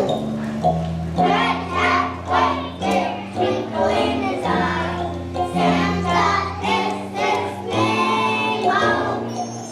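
Choir of young children singing a holiday song with a musical accompaniment.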